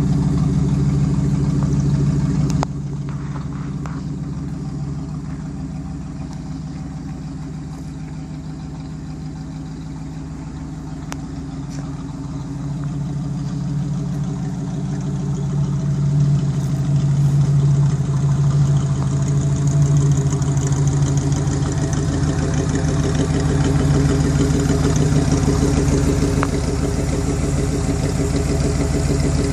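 1964 Chevrolet Impala's engine idling steadily. Its level drops suddenly about three seconds in and builds up again from about halfway through.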